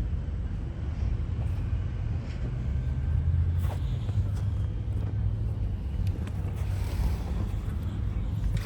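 Steady low rumble of a motor vehicle running, with a few faint clicks over it.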